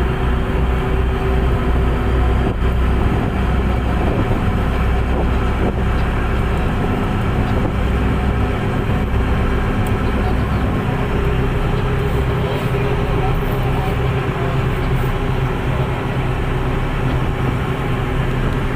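Tug boat's diesel engines running steadily under power, a loud, even drone with a deep hum.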